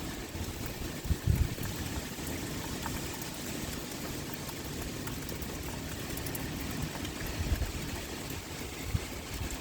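Steady heavy rain pouring, an even hiss with faint drop ticks on top. A few brief low thumps break through it, about a second in and twice near the end.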